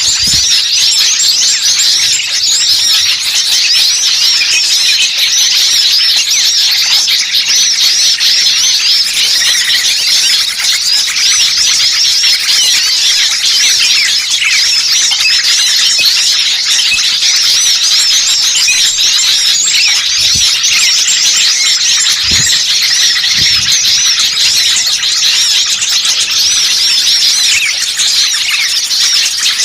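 Dense mixed chorus of many small songbirds chirping and twittering at once, rapid high overlapping notes without a break. It is a noisy ('ribut') small-bird lure recording of the kind played to draw wild birds in.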